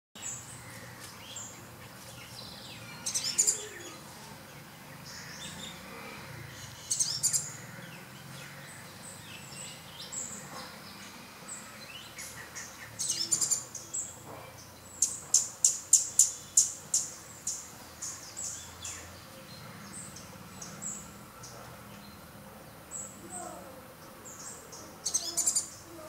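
Small birds chirping: short high calls throughout, with louder bursts of quick chirps every few seconds and, around the middle, a run of about ten sharp chirps in quick succession.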